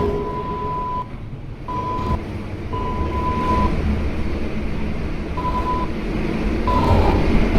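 New York City subway 4 train running through the station: a steady low rumble of wheels on rail with a high steady whine that keeps cutting in and out, growing louder near the end.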